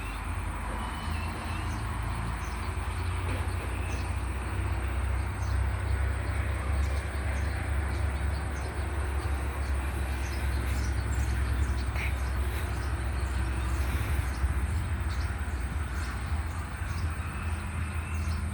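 Diesel freight train running past on the line, a steady low rumble with rail noise.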